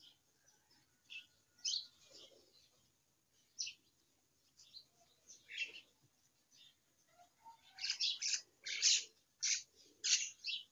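Small birds chirping: short, high chirps scattered throughout, coming thicker in the last few seconds.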